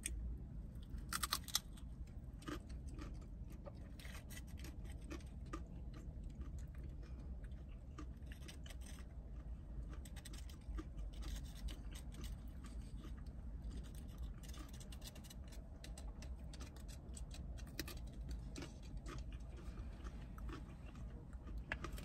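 Close-up chewing and crunching of broccoli dipped in ranch, with many short crisp crunches and wet mouth clicks over a steady low hum.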